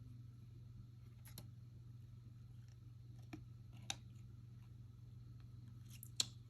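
Trading cards being handled: a few faint clicks and snaps of card stock, the sharpest near the end, over a steady low hum.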